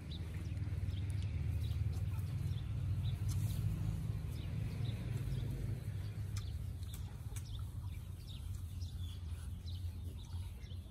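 Mouth sounds of people eating crispy fried noodles: scattered small crunches and clicks of chewing, over a steady low rumble that is strongest in the first half.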